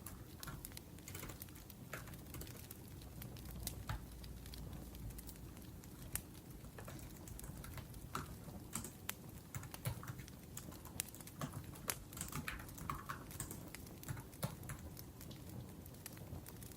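Laptop keyboard typing: irregular runs of key clicks over a wood fire crackling steadily underneath.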